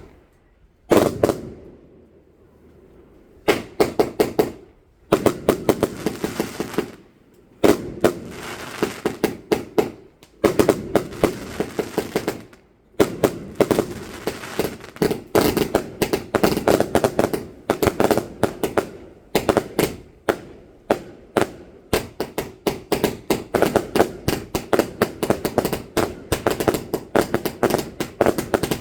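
Fireworks going off: a single bang about a second in, then rapid strings of sharp cracks in bursts from about three seconds in, running almost without a break through the second half.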